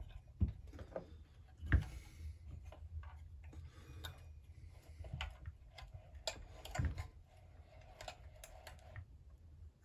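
Light, irregular clicks and knocks of small chainsaw parts and hand tools being handled on a workbench, with a louder knock about two seconds in and another near seven seconds.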